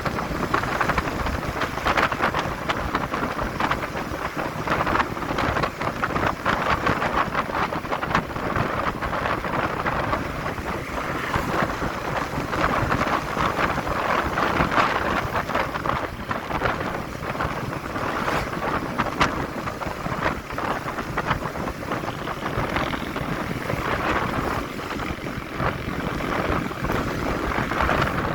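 Wind rushing over the microphone on a moving motorcycle, a steady noise with the bike's running and road noise beneath it.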